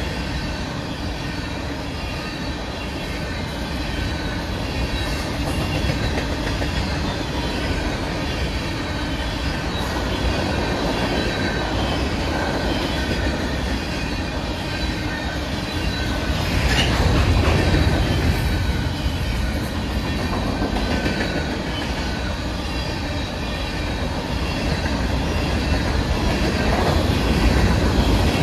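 Covered hopper cars of a freight train rolling past on steel rails: a steady low rumble of wheels with clickety-clack. It gets louder about two-thirds of the way through and again near the end.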